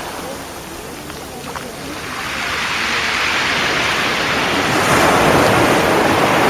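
Sea waves on a shingle beach. After a short lull the next wave builds and breaks, loudest in the second half.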